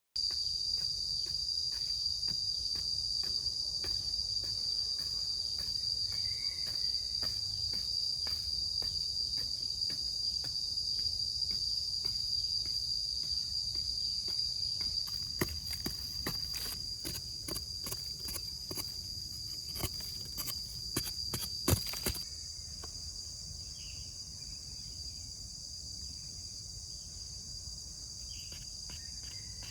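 Insects trilling steadily in a high, even drone. From about halfway in, a run of sharp clicks and knocks comes for several seconds, the loudest near the three-quarter mark. A low rumble under everything stops at about the same point.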